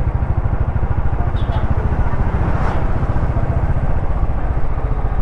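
Motorcycle engine running steadily with a rapid low pulsing while riding along a road, with wind and road noise.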